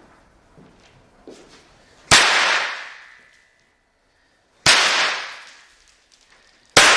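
Three loud bangs from Super Snaps, oversized throw-down snap crackers, going off as they are thrown against hard ground. The bangs come about two and a half and two seconds apart, each ringing out for about a second, at close to 120 decibels.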